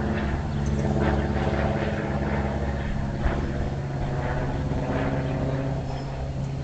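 Steady motor or engine drone holding one pitch throughout.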